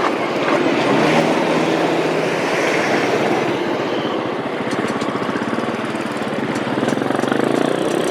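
A motor vehicle engine running close by, a steady, rapidly pulsing drone.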